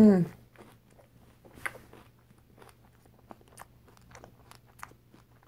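Close mouth sounds of someone chewing a chocolate-covered strawberry topped with whipped cream: small wet clicks and crackles, several a second, with one louder click about a second and a half in.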